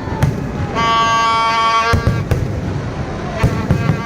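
Fireworks thudding and popping amid a crowd, with a single held horn-like tone lasting about a second, starting just under a second in.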